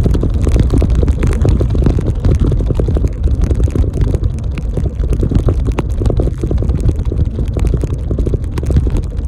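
Wind buffeting the microphone of a moving bicycle rider: a loud, low, uneven rumble with rapid thumps.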